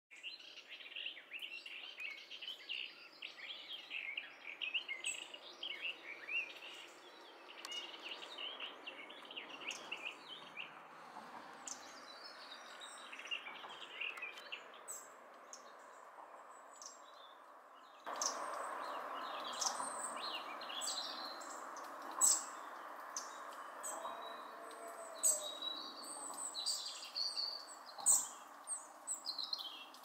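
Small birds calling, likely hawfinches: a busy high twittering through the first half. About eighteen seconds in, the background changes suddenly to a steady hiss with many sharp, high ticking calls.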